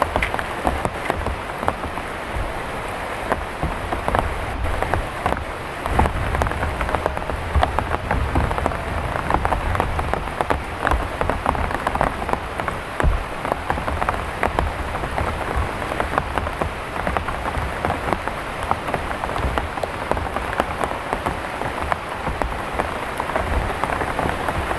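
Heavy rain falling steadily, a dense patter of countless drops striking, with a low uneven rumble underneath.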